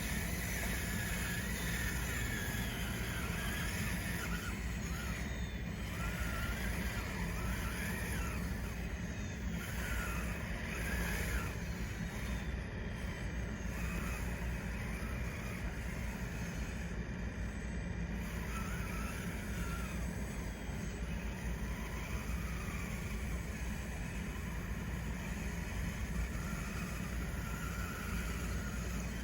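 RC bulldozer's small electric drive motors whining, the pitch rising and falling in short glides as it works, over a steady low rumble.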